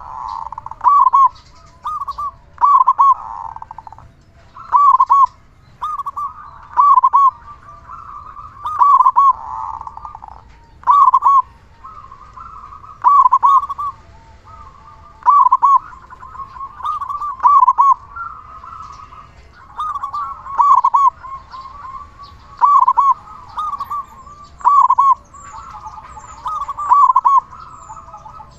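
Zebra dove (perkutut) cooing loudly, a short phrase of a few hooked notes every one to two seconds, with softer cooing in the gaps between phrases.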